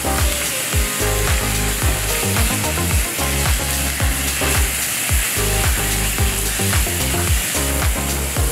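Fried rice sizzling in a nonstick frying pan as it is stirred and turned with a spatula, under background music with a steady beat.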